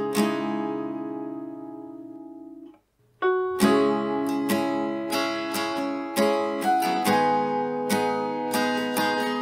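Acoustic guitar playing: a chord rings out and fades away, there is a short break about three seconds in, then strummed and plucked chords resume at a steady pace.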